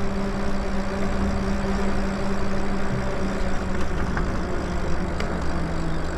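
Electric bike riding along under throttle: a steady motor hum with wind rumble and road noise. There are a couple of faint ticks in the second half, and the rider wonders whether he has just run over some glass.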